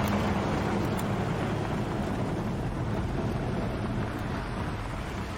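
A motor vehicle's engine running steadily with a low hum under road and wind noise, slowly getting a little quieter.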